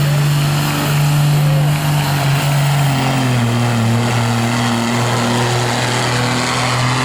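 Engine of a pulling vehicle running hard under load as it drags a weight-transfer sled down the pull track; its steady drone drops slightly in pitch about three seconds in as the sled bears down.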